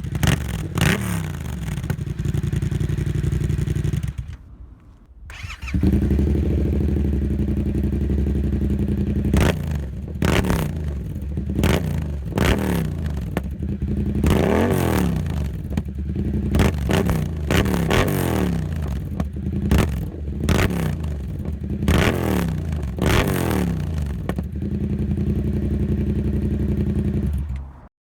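Yamaha MT-07's 689 cc parallel-twin engine idling, then blipped through about seven short revs, each rising and falling back to idle, with a brief drop in the sound about four seconds in.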